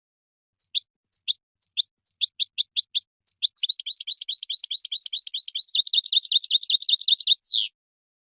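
A songbird singing: a series of identical high, downward-slurred notes, spaced at first, then quickening into a fast rapid trill that ends in one falling sweep.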